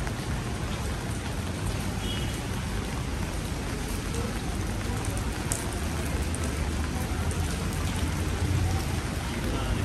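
Heavy rain falling steadily on paved ground, an even hiss, with a low rumble beneath it that grows a little stronger near the end.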